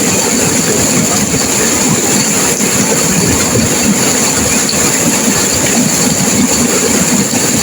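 Turbulent river water crashing and churning through rapids: a loud, steady, unbroken rush, heaviest in the low end.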